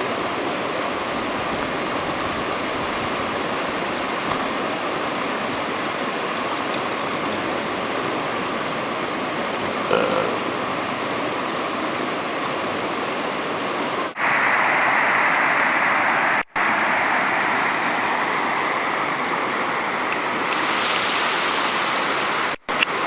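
Steady rushing of creek water flowing over rocks. It cuts out briefly three times, and after the first break the rush is brighter and hissier.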